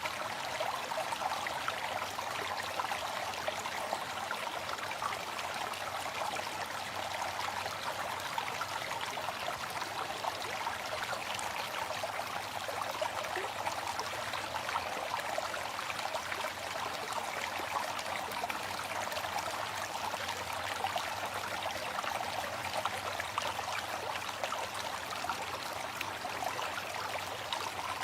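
Waterfall: falling water rushing and splashing steadily, with no breaks.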